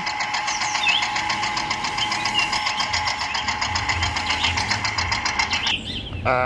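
Small motor of a mini model tractor running steadily with a fast, even rattle, cutting off near the end. Birds chirp faintly behind it, and a voice comes in at the very end.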